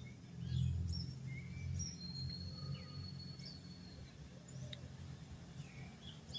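Wild birds chirping here and there over a low, steady rumble, with one bird holding a thin, level whistle for about a second around the middle.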